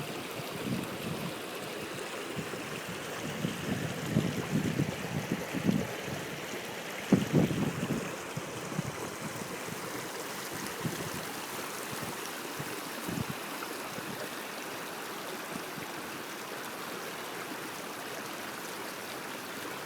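Steady rush of running water, like a stream. Irregular low rumbles come and go in the first half and once more later.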